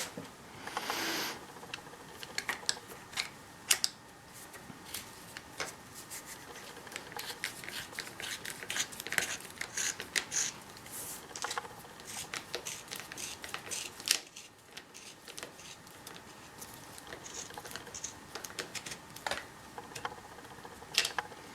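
Irregular light clicks and taps of small metal parts being handled as a bar-end mirror's fitting, with its ball joint and grub screw, is put back together and fitted into the end of a drop handlebar, with a brief rustle about a second in.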